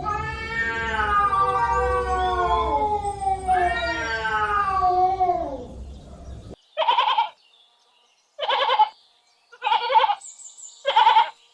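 Livestock bleating: two long bleats that sag in pitch, then four short wavering bleats spaced about a second or so apart.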